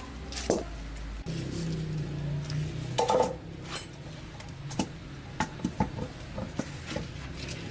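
Metal tools and gear parts clinking and knocking against each other in a run of short, sharp clanks, the loudest about three seconds in, with a low hum for about a second and a half near the start.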